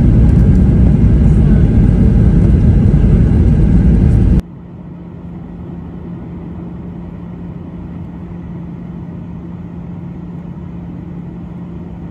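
Passenger airliner noise: a loud, heavy rumble that cuts off suddenly about four seconds in, giving way to a quieter, steady cabin drone with a constant low hum.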